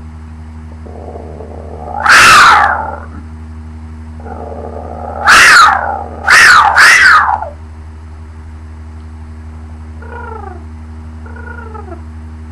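A woman's voice imitating a mountain lion's scream: three loud, high screeches that fall in pitch, one about two seconds in and two close together a few seconds later, each preceded by a breathy build-up. A few soft, short falling squeaks follow near the end, over a steady low electrical hum.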